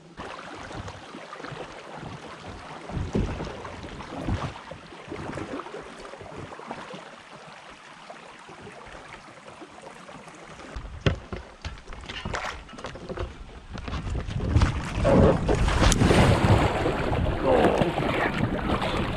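Water sloshing and splashing around a kayak, with scattered knocks and handling noise. It grows much louder and rougher about two-thirds of the way in.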